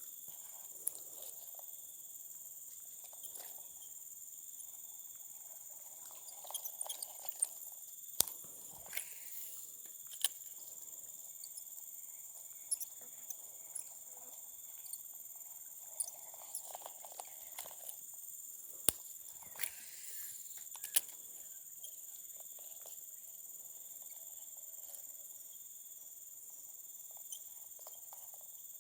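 Steady high-pitched insect chorus outdoors, with scattered sharp clicks and knocks throughout.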